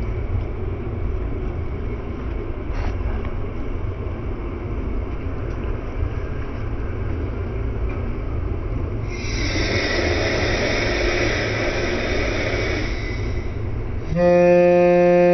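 Train running along the track with a steady low rumble; about nine seconds in a louder rushing noise rises for a few seconds and fades. Near the end a loud, steady pitched tone cuts in abruptly.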